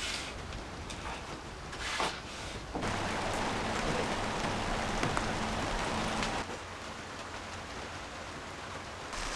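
Steady rain falling, an even hiss that grows louder for a few seconds in the middle.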